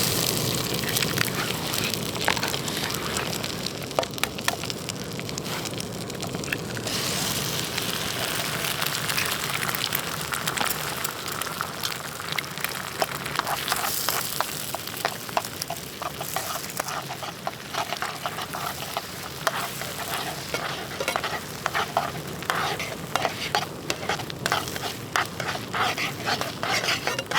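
Food sizzling in a frying pan, a steady hiss full of crackling pops that get busier and sharper in the second half.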